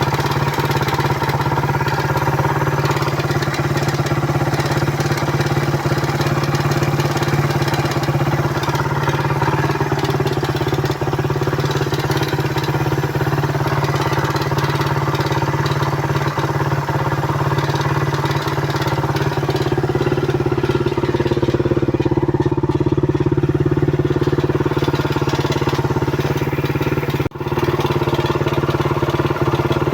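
Suzuki Raider 150 motorcycle's single-cylinder four-stroke engine running steadily at idle, cutting out for a moment near the end.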